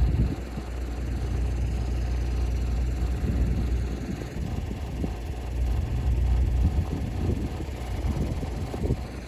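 Storm wind buffeting the microphone: a steady low rumble that swells and eases in irregular gusts.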